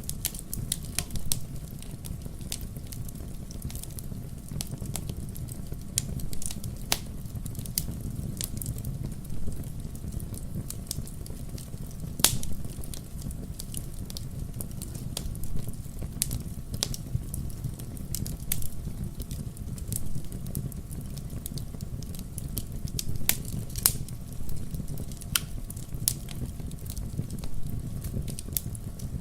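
Wood logs burning in a fireplace: irregular sharp crackles and pops over a steady low rumble of the fire, with a few louder pops along the way.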